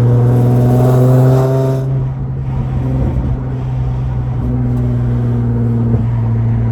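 Nissan 350Z's 3.5-litre V6 running through a titanium Agency Power straight-through exhaust. It is held at raised revs with the pitch creeping up for about two seconds, then drops back to a steady idle.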